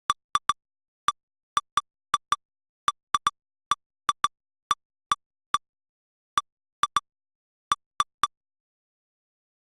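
Short, identical electronic pips from lightning-detector replay software, about two dozen at irregular intervals with silence between them. Each pip marks a detected lightning strike. The pips stop about eight seconds in.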